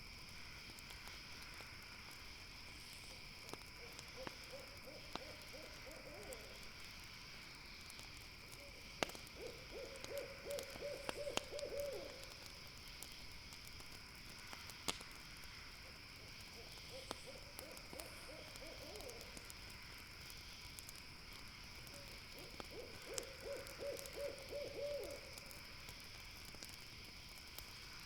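An owl calling four times, each call a rapid run of low pulsed hoots lasting two to three seconds, about six seconds apart. Campfire crackles and pops sound throughout, with a steady high-pitched hum behind.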